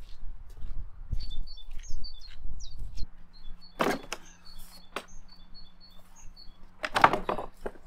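Small birds chirping, a string of short high chirps, with a few sharp knocks about four and seven seconds in.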